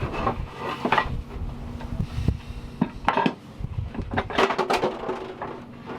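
Electric hair clippers running with a steady buzz while buzzing off a head of hair, with irregular clicks and knocks over the hum.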